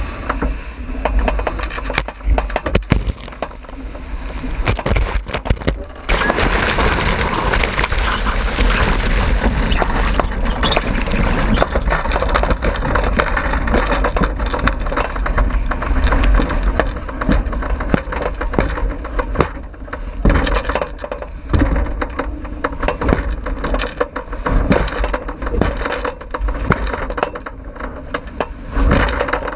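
Wind buffeting the microphone over water rushing and slapping along the hull of a J80 sailboat running downwind, with frequent knocks. About six seconds in, the rush turns louder and brighter for about five seconds.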